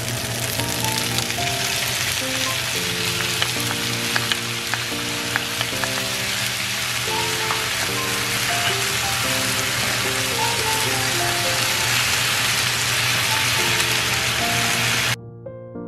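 Beef and broccoli sizzling loudly in a frying pan while a wooden spatula stirs them, with a few sharp clicks. Soft piano music plays underneath; the sizzling cuts off suddenly near the end, leaving only the piano.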